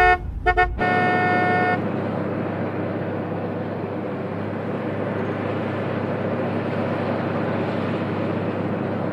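Car horn honking, a few quick toots and then one long blast lasting about a second, followed by a steady rushing noise of traffic.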